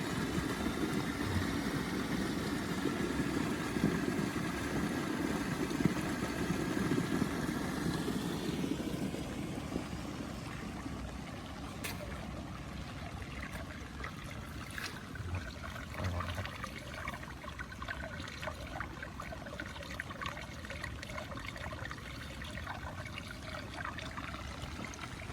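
Floodwater running steadily out of a rice paddy, louder for the first eight or nine seconds and then quieter, with a few sharp clicks.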